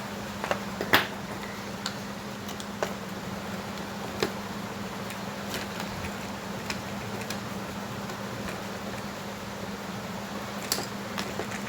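A handful of sharp clicks and taps over a steady low hum; the loudest click comes about a second in.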